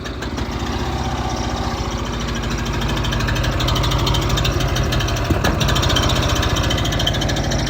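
A small engine running steadily, with a fast, even firing pulse, just after being started.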